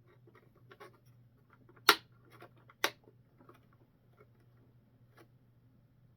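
Two sharp clicks about a second apart, among faint scattered ticks and rustles from small parts being handled.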